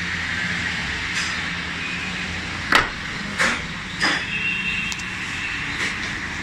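Steady road traffic noise, with three sharp knocks about two-thirds of a second apart near the middle.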